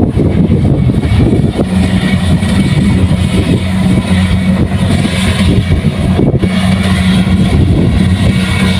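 Kubota rice combine harvester's diesel engine running steadily, a loud low drone with a dense rattle of machinery over it.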